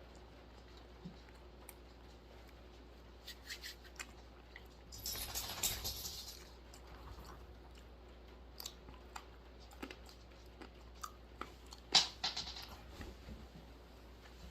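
Dry roasted almonds being chewed and crunched: scattered small crackles, a longer stretch of crunching about five seconds in, and one sharp loud crunch near twelve seconds followed by a few smaller ones.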